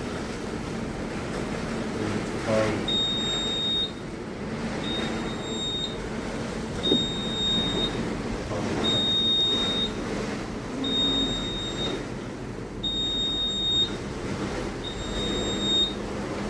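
Electronic alarm beeping: a steady high-pitched tone about a second long, repeating every two seconds from about three seconds in, over continuous low rumbling noise.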